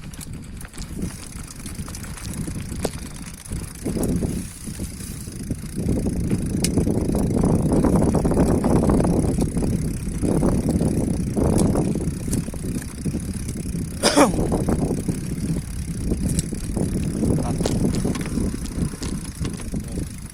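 A bicycle coasting downhill on a rough track: a continuous rumble of tyres and rattle that swells and fades with the bumps, loudest in the middle. There is a single sharp clank about 14 seconds in.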